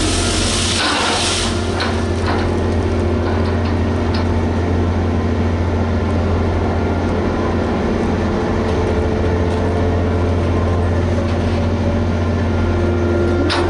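Liebherr HS 8200 dragline's diesel engine running with a steady low drone, a hiss over the first second or so and a few light knocks.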